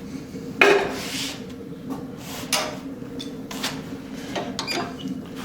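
A few scattered metal clanks and knocks, the strongest about half a second in and two more around two and a half and three and a half seconds, as steel tools and the workpiece are handled on the bench, over a steady low hum.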